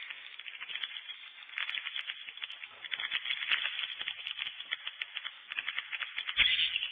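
Swiftlets calling in a fast, rattling chatter of twittering clicks, with a louder burst near the end.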